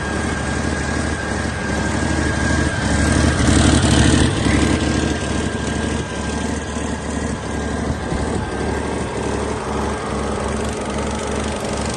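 2005 Cummins ISX 565 inline-six diesel engine running on a test run, mostly at idle, with a brief rise in revs about three to four seconds in before it settles back to idle. A steady whine sits over the engine's running.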